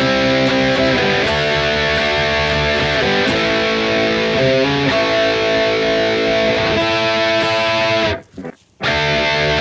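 Harley Benton Fusion III electric guitar on its bridge humbucker, through a modelled amp and cab, playing plain held chords that change every second or two. The chord is cut off briefly near the end before the next one rings out.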